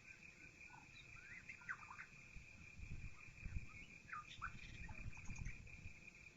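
Songbirds chirping faintly, many short scattered calls, heard through a half-open window, over a constant high-pitched drone, with a low rumble swelling through the middle.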